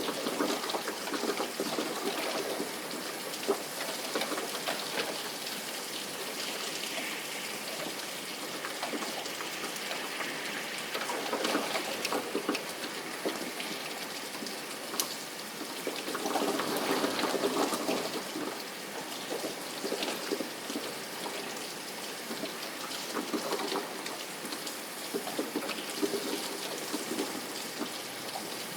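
Steady rain falling, with many small drop ticks and swells in strength a few times.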